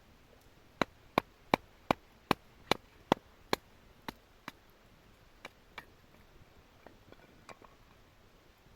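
A knife blade being tapped through a piece of firewood with a wooden baton (batoning): a quick series of sharp wooden knocks, about two and a half a second, that thin out and fade after a few seconds.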